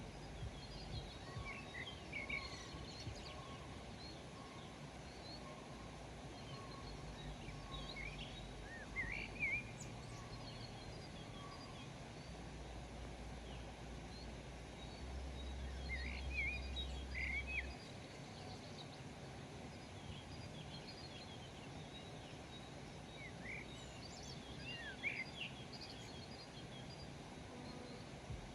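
Songbirds chirping in short scattered bursts of quick high notes and trills, over a steady outdoor hiss. A low rumble swells in the middle.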